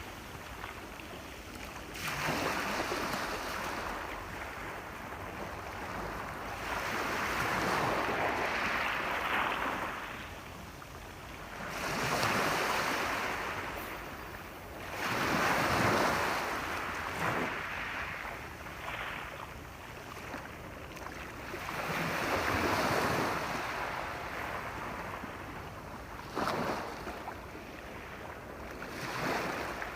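Sea waves breaking and washing up the shore: the surf swells and fades every few seconds, with the loudest wave about halfway through.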